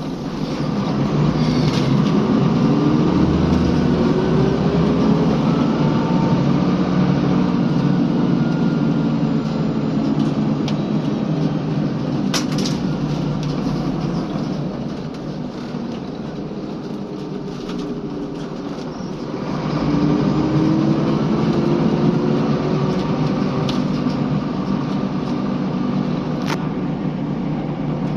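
Scania L94UB bus running on the road: the engine note climbs as it accelerates, eases off and drops in level for a few seconds midway, then climbs again as it picks up speed. A few sharp knocks or rattles stand out above the engine.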